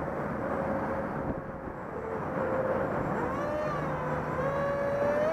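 Electric motor and 6x4 propeller of a small RC jet whining in flight, the pitch rising and falling as the throttle changes. Heavy wind rushes over the microphone.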